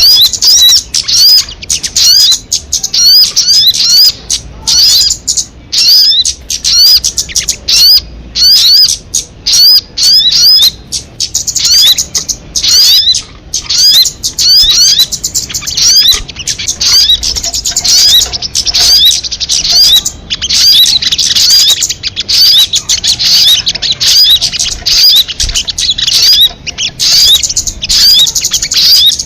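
Sogon bird singing loudly and without pause: rapid runs of short, high, upward-sweeping chirps, several a second, broken by brief gaps.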